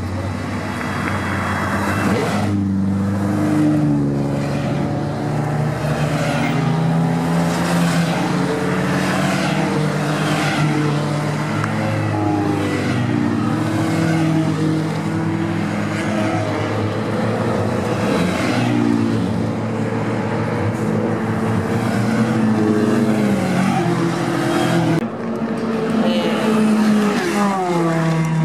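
Several touring race cars lapping a circuit, engines running hard. Their overlapping notes rise and fall through revving and gear changes as the cars pass.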